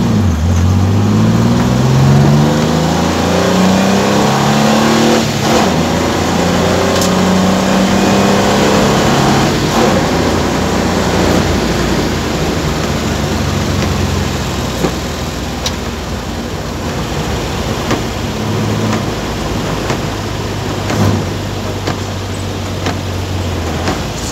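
Car engine heard from inside the cabin, accelerating hard through the gears: its pitch climbs and drops back at each of several shifts, then holds steady, and it eases to a low, even running near the end as the car slows. A steady hiss of wet road and rain runs underneath.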